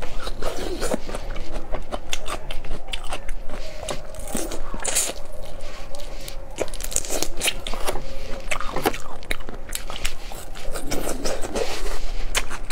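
Close-up eating sounds: a whole shrimp bitten and crunched, shell and all, with wet chewing. Many sharp, rapid crackles and clicks run throughout.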